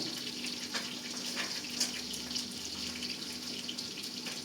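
Running water splashing steadily, with a faint steady hum beneath it.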